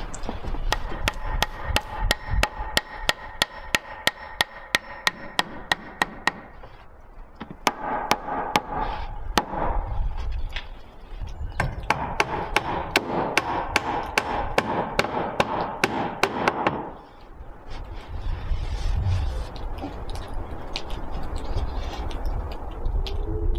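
Rapid repeated sharp strikes, about three a second, in three runs with short pauses between, each run carrying a faint ringing tone; the strikes stop about two-thirds of the way through, leaving a steady low rumble.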